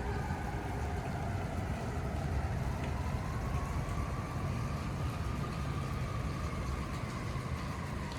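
Vehicle rumble from city traffic, with a motor whine that dips in pitch, rises about halfway through and falls again near the end.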